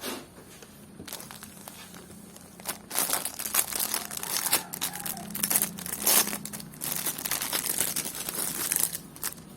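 Plastic packaging crinkling and rustling in bursts as a parcel is unwrapped and handled, busiest through the second half.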